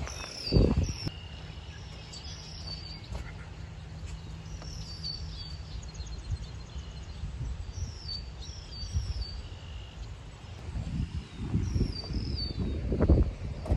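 Small birds chirping outdoors, repeating short high notes that slide down in pitch every second or so. Low thumps come about half a second in and again near the end.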